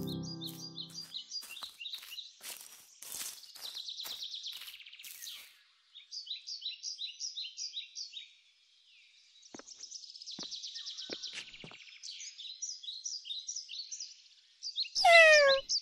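Birds chirping in rapid repeated series, with scattered sharp clicks. Near the end a short, loud call falls steeply in pitch.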